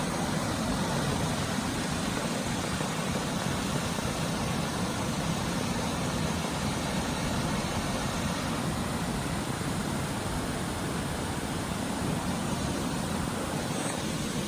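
Waterfall: water pouring down in a steady, even rush that does not let up.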